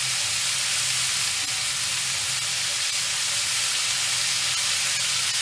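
Chopped onion, cabbage and tomato sizzling steadily in hot oil in a kadhai.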